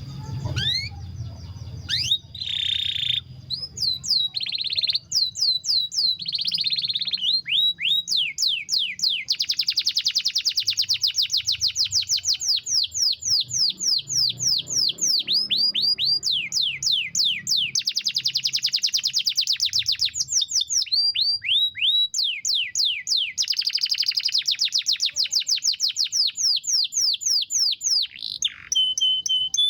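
Domestic canary singing long rolling trills: very rapid runs of repeated high notes that sweep downward, several long runs with short breaks between them.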